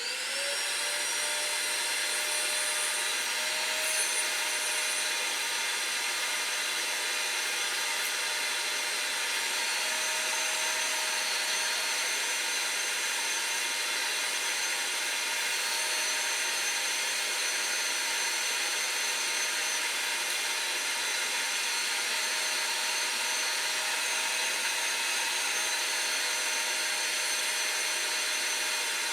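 Vacuum cleaner switched on, its motor whine rising briefly as it spins up and then running steadily. It is sucking soot and ash out of a pellet stove's lower ash containers through a length of corrugated cable conduit.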